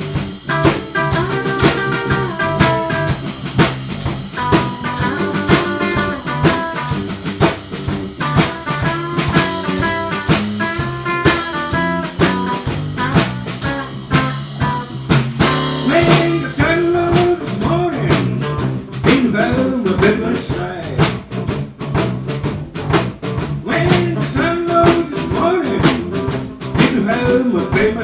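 Live band playing a blues-style number, with a drum kit keeping a steady beat under guitar and other instruments.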